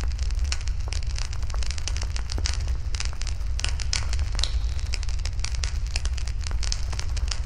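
Wood bonfire crackling, with many sharp pops and snaps at irregular intervals over a steady low rumble.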